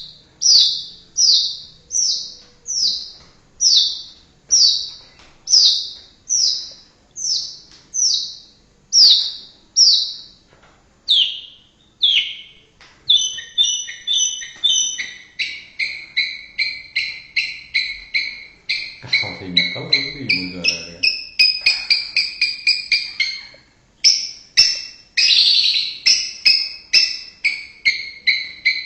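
White-rumped shama (murai batu) singing: a steady series of clear whistled notes that each fall in pitch, about one and a half a second, then from about halfway a faster chattering run of notes jumping between a higher and a lower pitch.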